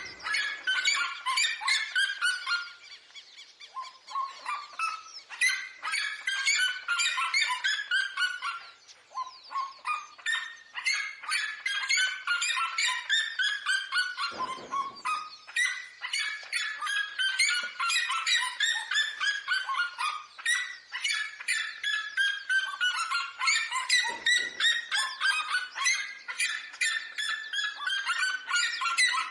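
Red-legged seriema calling: long, loud series of rapid yelping notes that fall in pitch through each phrase and repeat again and again, with phrases overlapping as more than one bird calls at once.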